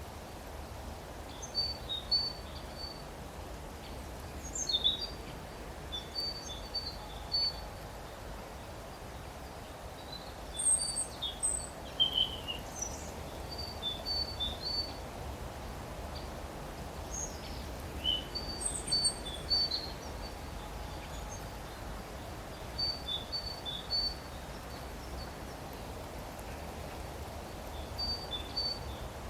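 Small songbirds chirping in short phrases of a few high notes, repeated every few seconds, over a steady low background rumble.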